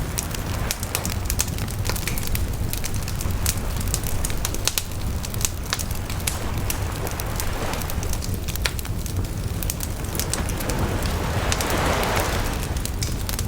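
Wood bonfire crackling, with many sharp pops over a steady low rumble. A louder rushing swell comes about eleven seconds in.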